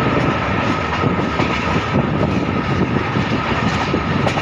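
Saurashtra Mail passenger express running at speed: a loud, steady rumble and clatter of wheels on rail with a constant high-pitched whine over it.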